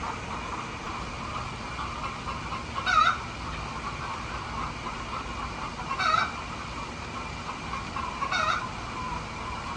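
A flock of hens clucking steadily, with one louder, sharper call standing out three times, every two to three seconds.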